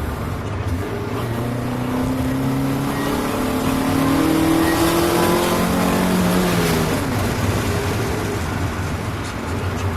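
2000 Honda Civic's 1.6 L SOHC four-cylinder (D16Y7 with race header and short ram air intake) accelerating under load, its pitch rising for several seconds, then falling away about seven seconds in.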